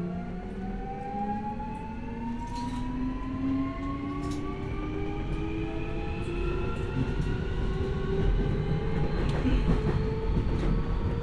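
Keio 1000 series electric train heard from inside the passenger car as it accelerates. The inverter-driven traction motors whine with several tones climbing steadily in pitch, over the low rumble of the wheels on the rails and a few rail-joint clicks.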